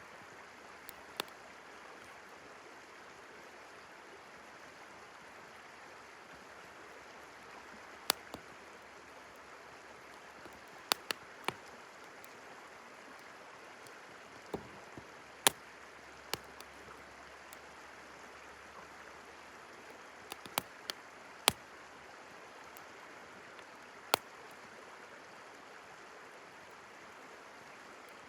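Campfire crackling, with sharp, irregular pops a few seconds apart, over the steady rush of a flowing river.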